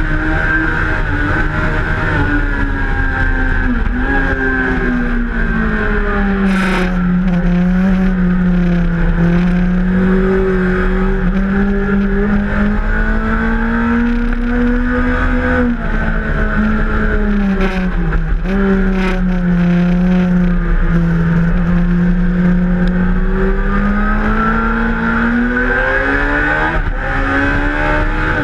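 Suzuki GSX-R1000 inline-four sport bike engine under way on track, heard from onboard. Its note falls sharply about 4 and 18 seconds in, climbs slowly between, and rises again near the end, over steady wind rush on the microphone.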